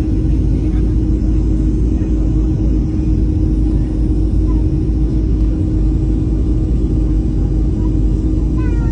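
Airliner cabin noise heard from inside during landing: a steady low rumble with a constant hum through it.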